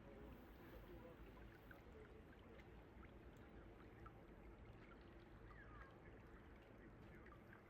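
Faint flowing water of a stream, a low steady rush with scattered small ticks. A short faint chirp comes about six seconds in.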